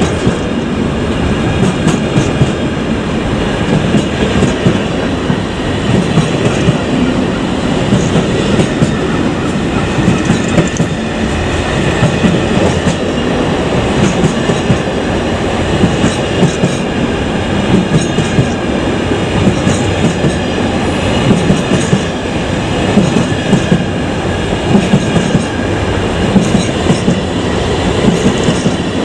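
Container wagons of a long intermodal freight train rolling past close by: a steady rumble of wheels on rail with a rhythmic clickety-clack as each wheelset crosses the rail joints, and a faint squeal from the wheels.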